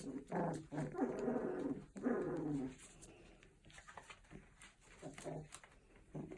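Puppy vocalizing: three drawn-out, pitched growly whines in the first three seconds, then a few fainter, shorter sounds.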